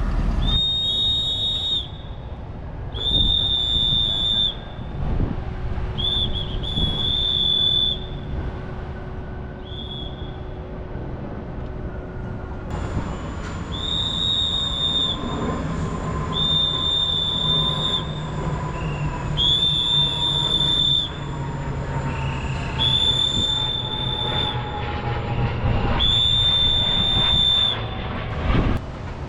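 A truck engine running low and steady under a high-pitched squeal that comes and goes about ten times. Each squeal lasts one to two seconds, at uneven spacing.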